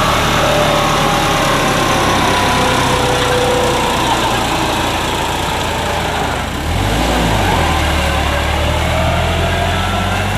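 Massey Ferguson 450 tractor engine running hard while the tractor is stuck in mud. Its pitch dips about two-thirds of the way in and then climbs back up.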